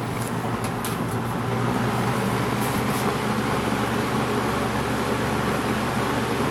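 1980s Edison Thin-N-Lite 20-inch box fan running: a steady motor hum under the even rush of air from the blades. It grows a little louder over the first couple of seconds, then holds steady, with a few faint ticks in the first second or so.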